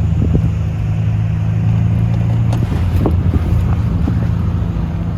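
Small gasoline engine of an engine-swapped Power Wheels ride-on running steadily while being ridden, its note shifting slightly about two and a half seconds in, with wind noise on the microphone.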